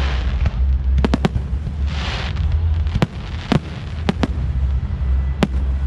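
Aerial fireworks going off: about seven sharp bangs at irregular intervals, with two spells of crackling hiss, one at the start and one about two seconds in. A steady low rumble runs underneath.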